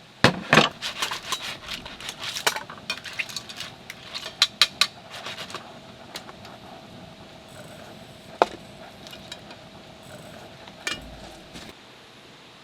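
Rapid clinking and clattering of small hard objects being handled, many quick strikes over the first five seconds or so, then two single knocks later on.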